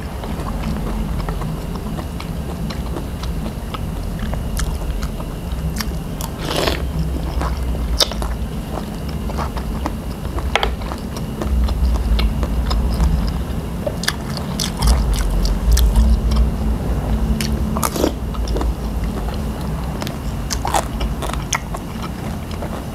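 Close-up chewing and biting of a mouthful of spicy pounded salad with crispy squid tentacles, wet mouth sounds with scattered sharp crunches and clicks.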